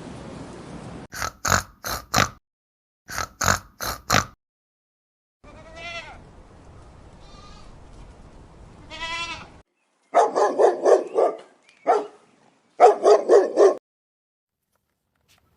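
Animal bleating in a string of separate calls: two groups of three short, sharp calls, then two drawn-out wavering calls, then two bursts of rapid quavering calls near the end.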